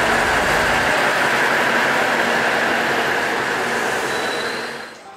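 A passenger train's coaches rolling past on the rails, a steady clatter and hiss of wheels on track. The low rumble drops away about a second in as the last coach clears, and the sound fades out near the end as the train moves off.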